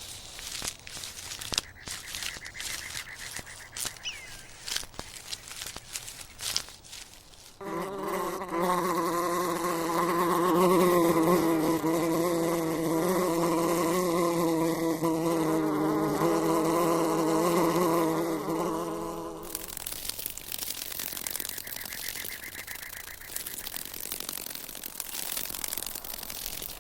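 A flying insect buzzing: a steady, low, wavering hum that starts about seven seconds in, lasts about twelve seconds and cuts off sharply. Clicks and rustling come before it.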